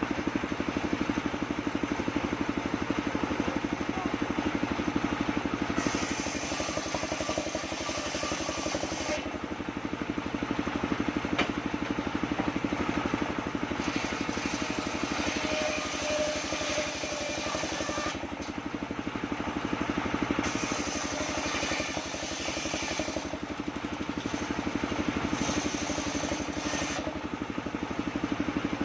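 Engine-driven homemade circular sawmill running steadily, its engine beating evenly, with several stretches of added hiss as the blade cuts through sengon timber.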